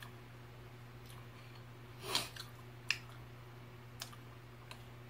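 A person quietly chewing milk-soaked hardtack cereal, with a few small clicks, the sharpest about three seconds in, over a steady low hum.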